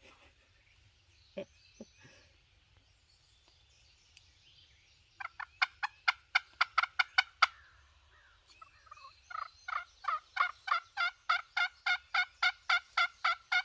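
Turkey yelping: two long runs of evenly spaced yelps, about four to five a second, the second run longer and running past the end.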